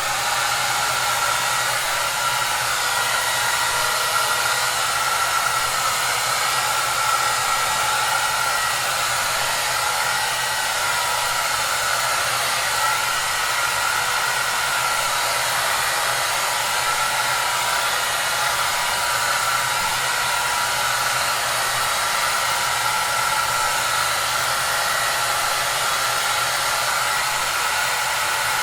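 Hair dryer running steadily: an even rushing noise with a low motor hum and a steady higher whine, unchanging throughout.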